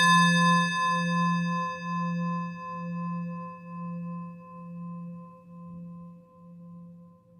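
A singing bowl, struck just before, rings out and slowly fades. Its low tone swells and dips in loudness about once a second, and the higher overtones die away first.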